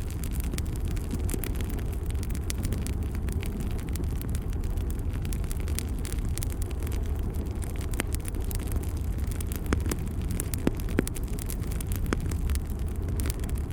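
Fire burning in a fireplace: a steady low rumble of flames with frequent scattered sharp crackles and pops.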